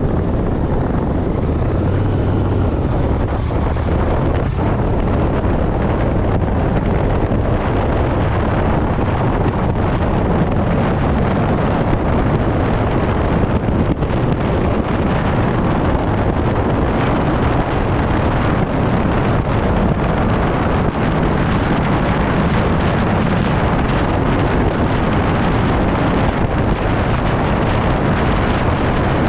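Motorcycle engine running on the move, under steady wind noise on the microphone.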